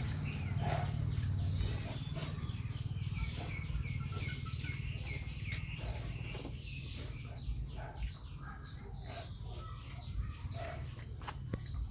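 Chickens clucking and chirping, with a run of short falling chirps about three a second in the first half, over a steady low hum.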